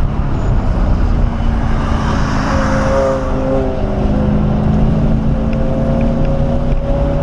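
1997 SVT Cobra Mustang's V8 running at track speed, heard from inside the cabin with heavy road and wind noise. The engine note holds fairly steady, with a swell of rushing noise about two to three seconds in and the pitch creeping up near the end.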